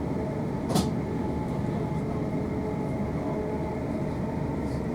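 Interior of a Class 444 electric multiple unit running, a steady rumble with a faint steady hum. One sharp knock about a second in.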